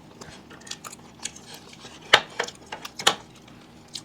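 Cutlery clinking and tapping against plates and bowls while food is eaten, with a few sharp clinks, the loudest about two seconds in and just after three seconds.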